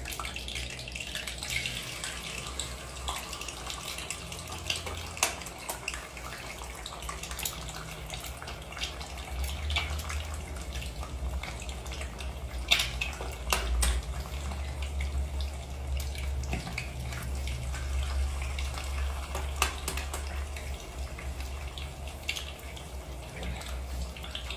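Kitchen cooking sounds: a steady watery hiss with scattered clinks and knocks of cookware, over a low rumble that swells in the middle.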